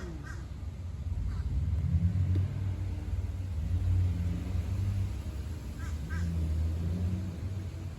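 Low, steady rumble of a car in motion, its engine and road noise wavering slightly.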